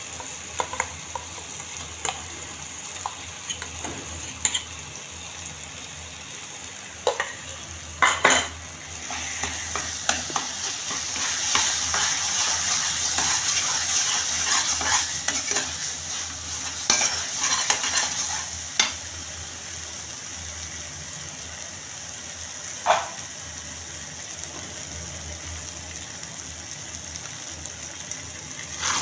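Thick masala paste sizzling in a pan while a metal spatula stirs and scrapes through it, with a few sharp clinks of the spatula on the pan. The sizzling grows louder for several seconds around the middle.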